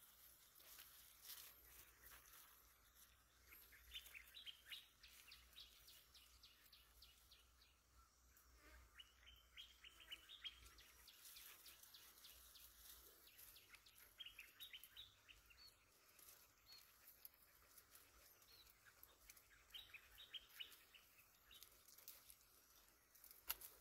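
Faint bird song: a short, rapid trill of high notes, repeated four times about every five seconds over a quiet rural background.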